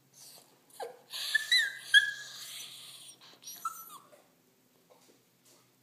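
Dog whining and whimpering with hunger, begging for food: a few short high-pitched cries that bend in pitch, the loudest about a second and a half to two seconds in, and one last whine near the four-second mark.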